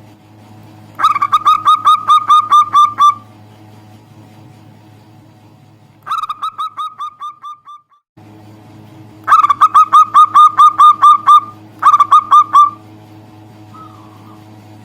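Zebra dove (perkutut) calling in four loud runs of rapid, evenly repeated notes, about five a second, each run lasting one to two seconds; the second run fades away. A steady low hum lies underneath.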